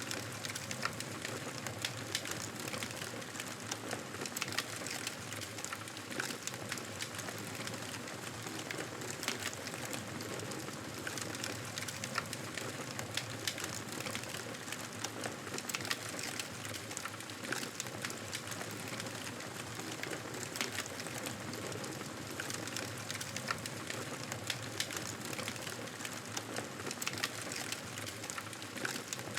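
Wood fire crackling, with many small sharp pops scattered over a steady hiss.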